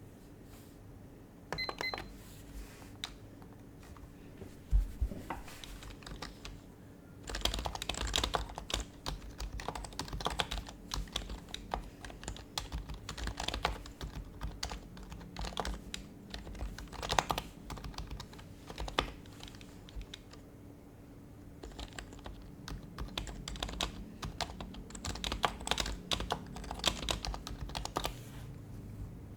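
Typing on an HHKB Professional HYBRID Type-S keyboard, its silenced Topre capacitive switches giving soft, muted keystrokes. The keystrokes come in quick runs with short pauses between, after a single low thump about five seconds in.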